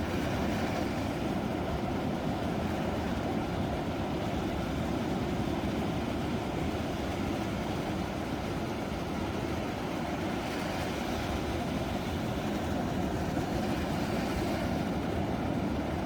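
Ocean surf: a steady low rushing noise of waves, swelling slightly about ten seconds in and again near the end.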